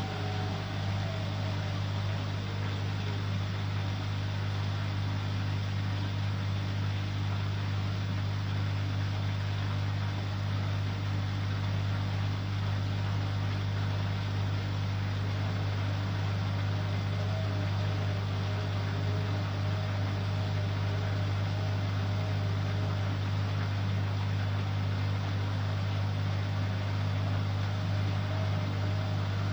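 Bosch Aqua Star washing machine running: a steady low hum, with a faint wavering whine above it.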